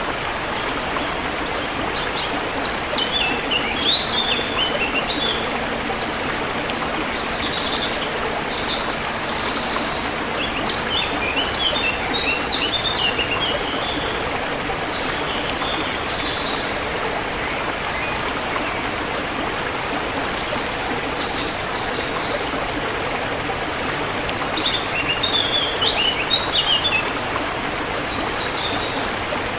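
Forest stream flowing with a steady rush, while small birds chirp and twitter in short bouts every few seconds.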